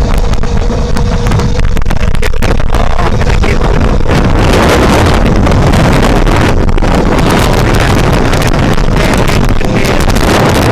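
Heavy wind buffeting the microphone on a homemade electric bike driven by a car alternator at speed, a loud steady rush with a faint steady tone that fades out about two seconds in.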